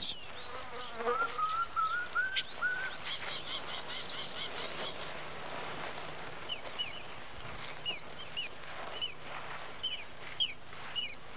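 Wild birds calling over a faint steady hiss of outdoor ambience. First comes a short run of notes stepping slightly upward, then a quick string of high chirps, then repeated pairs of short down-slurred whistles through the second half.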